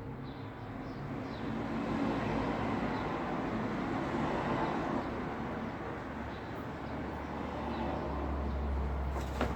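Road traffic: the noise of passing vehicles swelling and easing, with a low engine rumble setting in about six seconds in and a sharp click near the end.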